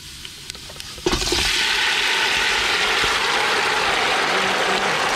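Minced garlic and lemongrass frying quietly in oil in a large metal pot. About a second in, marinated chicken pieces go into the hot pot and a loud, steady sizzle starts as the meat sears.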